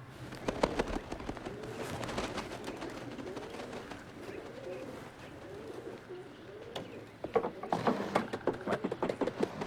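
Racing homer pigeons cooing repeatedly in short rising-and-falling coos, with bursts of sharp clatter about half a second in and again, more densely, near the end.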